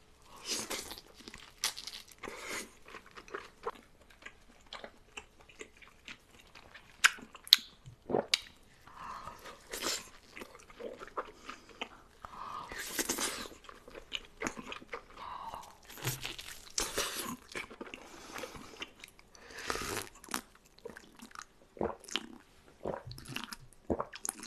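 Close-miked eating sounds: a person biting and chewing food, with irregular crunchy, wet mouth clicks and smacks. Two sharper, louder clicks come about seven seconds in.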